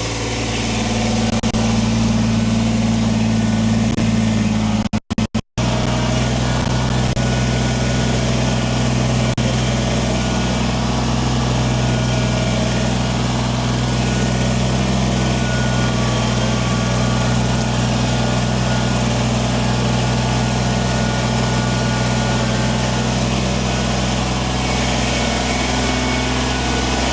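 Kubota compact tractor's diesel engine running steadily. The sound cuts out briefly three times about five seconds in, and the engine note steps up slightly after that.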